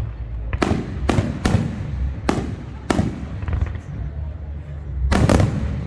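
Fireworks going off: a string of sharp bangs over a continuous low rumble, with a loud double bang near the end.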